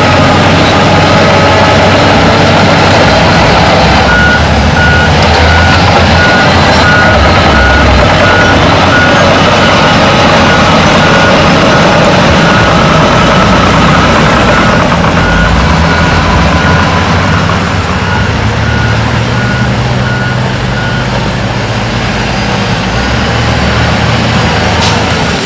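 Heavy diesel earthmoving machinery running, with a reversing alarm beeping at an even pace from about four seconds in. The beeping pauses briefly around the middle.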